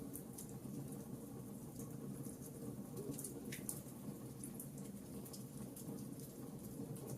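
Fireplace fire crackling: scattered sharp pops and snaps over a steady low rumble of flame.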